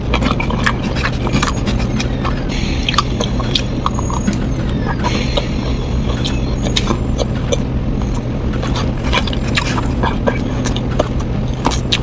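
A person chewing fried fish close to the microphone: irregular sharp mouth clicks and small wet smacks, over a steady low hum.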